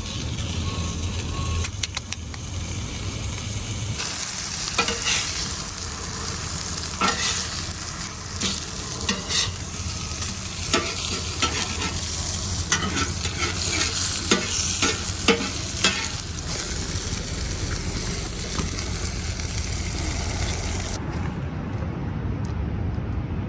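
Pieces of batter-coated halibut deep-frying in hot oil: a steady sizzle with scattered pops and crackles. The higher hiss drops away abruptly near the end.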